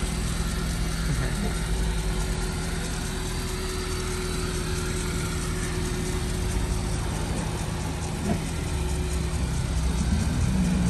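Volkswagen Saveiro Surf pickup's engine idling steadily with its original, stock exhaust note, getting slightly louder about nine seconds in.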